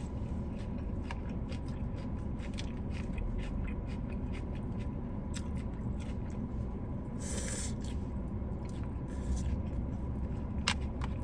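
Close-up chewing and mouth smacking of someone eating, with scattered small wet clicks and a brief hiss a little past halfway.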